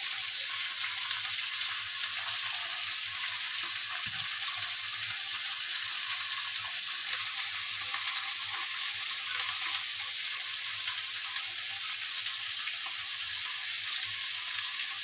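Cauliflower florets frying in hot mustard oil in a kadhai: a steady sizzling hiss.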